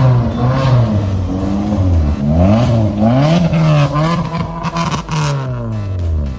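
Maruti Baleno engine revved up and down through an aftermarket dual exhaust silencer in a string of quick blips, the last one falling back near the end.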